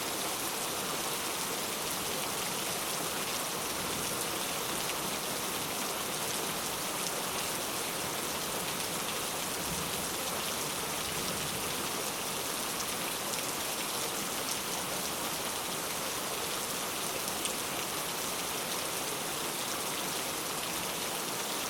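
Steady rain falling, a dense even hiss with fine scattered drop ticks.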